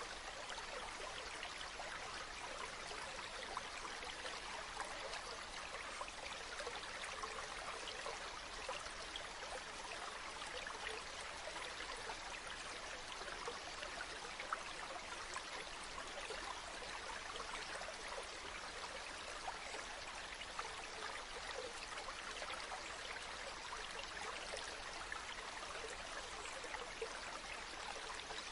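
Water running and trickling steadily from a spring, an even splashing hiss with small crackles and drips and no change throughout.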